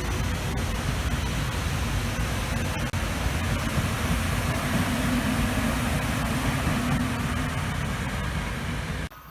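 Passing train: a steady, loud rumble of wheels on rail with a faint hum in the middle. It cuts off abruptly near the end.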